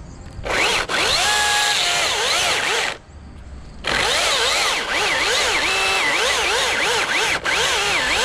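Battery-powered chainsaw cutting through a thick tree limb in two bursts. Its whine rises and falls over and over as the chain bogs in the cut and speeds up again.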